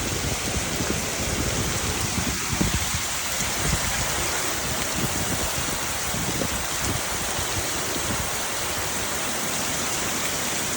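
Heavy rain falling steadily, a dense even hiss of drops on the ground and surfaces.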